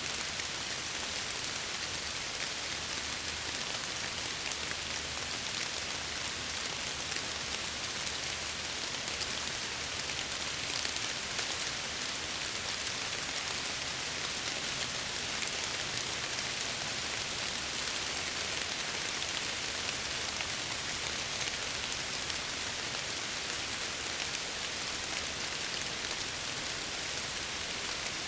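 Steady rain against window glass, an even hiss of many fine drops.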